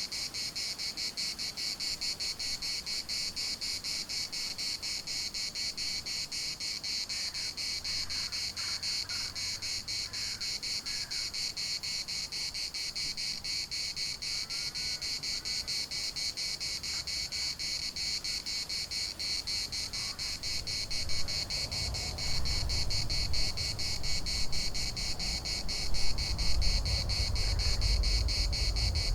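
Chorus of cicadas: a steady, high, rapidly pulsing buzz. A low rumble comes in about two-thirds of the way through and grows louder toward the end.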